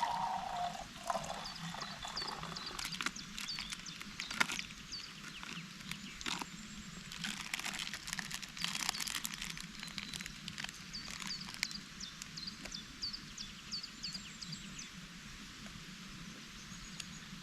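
Outdoor woodland ambience: a small bird chirping over and over with short, high notes, with scattered clicks and light knocks of camp gear being handled.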